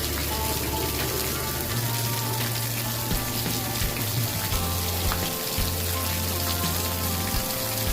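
Campfire crackling: a steady hiss with frequent small pops and snaps, over a low hum that shifts in pitch every second or two.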